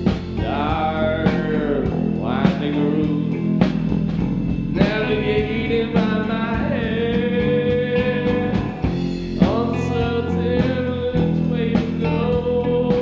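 A band playing a song: a singer's long, sliding vocal phrases, three of them, over guitar, bass guitar and a drum beat.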